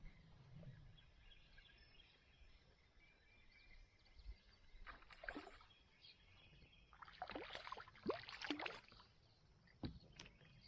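Kayak paddle strokes in the water, a few splashy strokes over quiet river ambience, with a couple of sharp clicks near the end.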